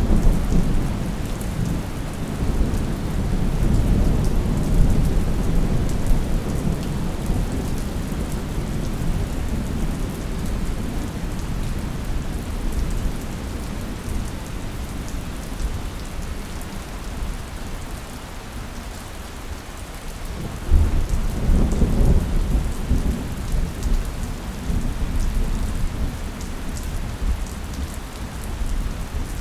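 Steady heavy rain falling during a thunderstorm, with rolling thunder that slowly fades away, then a fresh loud clap of thunder about two-thirds of the way through that rumbles off again.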